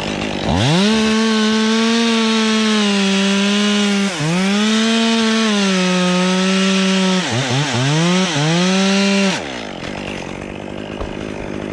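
Two-stroke top-handle chainsaw (a Stihl MS 201) revved to full throttle and cutting through a tree spar. Its speed sags briefly partway through and wavers several times near the end as the saw gets stuck in the cut where the hinge was bypassed, then it drops back to idle.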